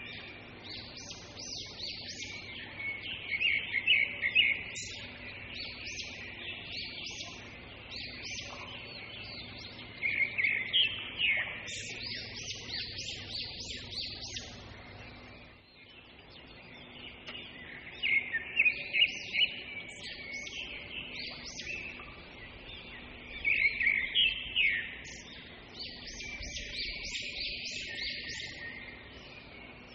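Small birds chirping in recurring bursts of rapid, high calls every several seconds, over a faint steady low hum.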